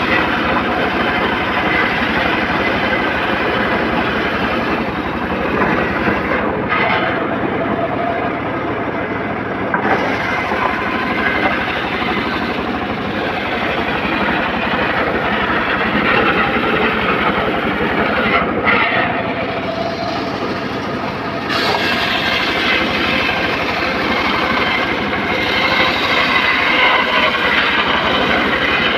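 Engine-driven homemade circular saw cutting teak timber, a loud continuous machine noise with short dips a few times as the cut eases off.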